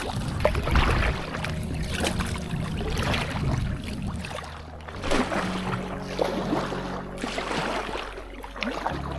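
Paddle dipping and splashing in river water from a packraft, in irregular strokes with water dripping and trickling between them.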